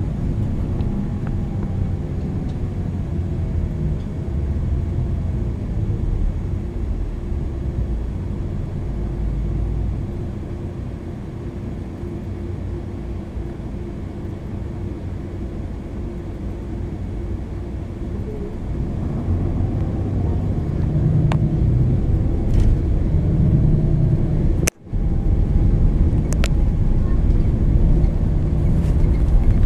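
MAN NL 323 city bus's diesel engine and ZF EcoLife automatic gearbox heard from inside the bus while driving between stops, with a faint whine wandering up and down in pitch. It runs quieter through the middle, then grows louder from about twenty seconds in as the bus picks up speed. The sound cuts out for a split second about 25 seconds in.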